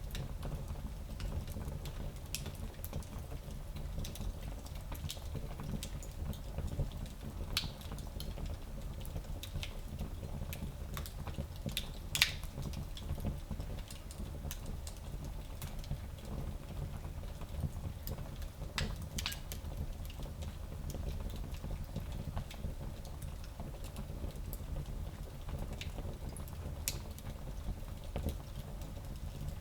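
Fire in a small fireplace crackling: a steady low rumble of flames with scattered sharp pops, the loudest about twelve seconds in.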